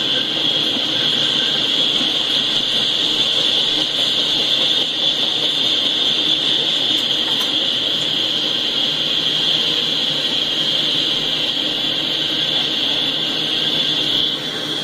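Double-stack intermodal freight train rolling past: a steady noise of wheels on rail with a steady high whine over it that eases a little near the end. It comes from a live train-cam stream played through a speaker.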